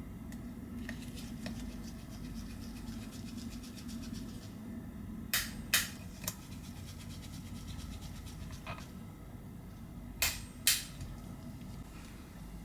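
Small sharp clicks of tools and parts being handled on an iPhone's frame during reassembly, a run of faint ticks followed by louder clicks in two pairs, about five and ten seconds in, over a faint low hum.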